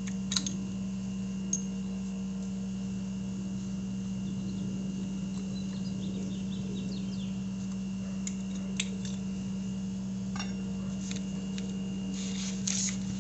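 Steady low hum with a faint high whine, with a few scattered light metal clicks and taps of parts being handled, a small cluster near the end.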